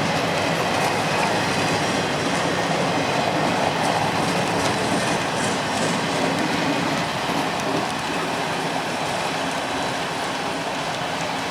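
Freight train cars rolling steadily past on a curve: a continuous rumble and clatter of steel wheels on rail.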